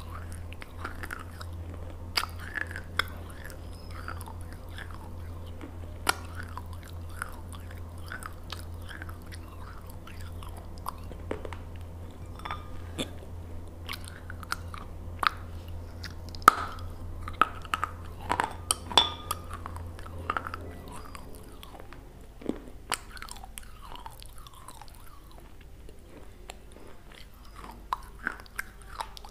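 Close-miked biting and chewing of a crunchy food, with sharp crunches scattered throughout and a steady low hum underneath that stops about two-thirds of the way in.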